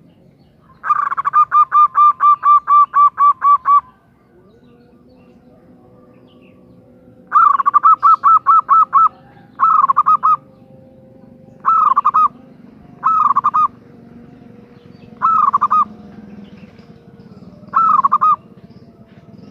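Female zebra dove (perkutut) giving its quick, rippling cooing call. A long run of about a dozen rapid notes comes first, then several shorter bursts of a few notes each, spaced a second or two apart.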